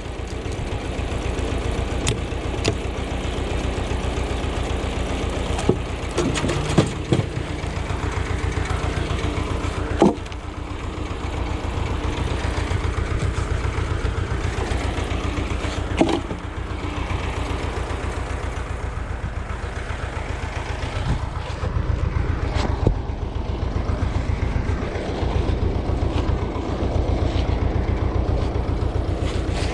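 Ursus tractor engine running steadily with an even chugging pulse, over which a few sharp knocks sound at irregular intervals.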